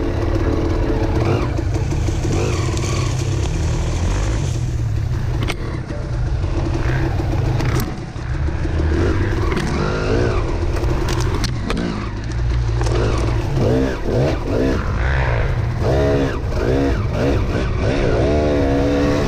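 Two-stroke dirt bike engine of a 2006 KTM 300 XC-W running on a trail ride, the throttle opening and closing so the pitch rises and falls, with quick repeated revs through the second half.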